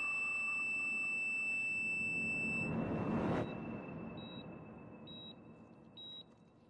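Dramatic score with a held high tone and a swelling whoosh that cuts off sharply about halfway through. A patient heart monitor then beeps about once a second.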